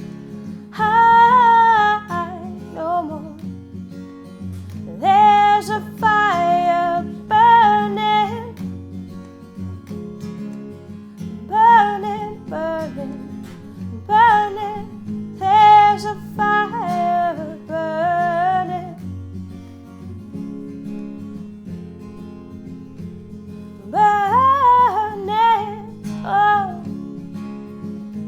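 Strummed acoustic guitar with a woman singing wordless held phrases over it; the voice drops out for several seconds, then returns for one last phrase while the guitar plays on.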